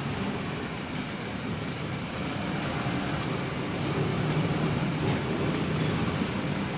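Interior of the GAL WS120 bus on the move: steady engine and road hum with a thin high whine above it, and a few light ticks and rattles, the sharpest about five seconds in.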